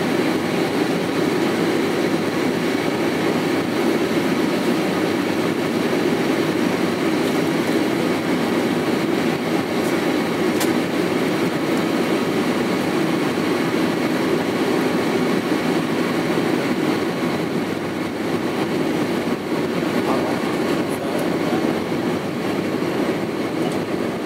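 Steady cabin roar inside an Airbus A319 in flight: its IAE V2500 jet engines and the airflow over the fuselage, heard from a seat behind the wing.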